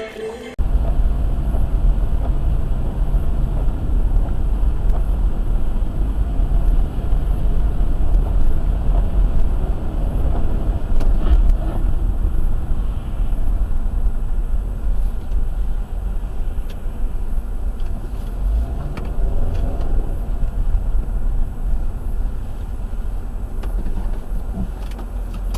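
Car driving: a steady low rumble of engine and road noise that starts abruptly about half a second in.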